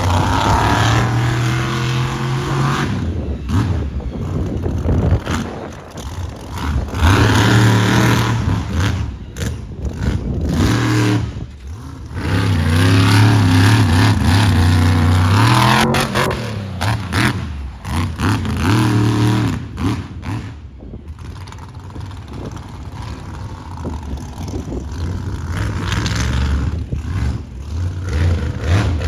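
Monster truck engine revving hard in repeated bursts, its pitch climbing and dropping as the throttle is blipped and held, with a quieter stretch past the middle.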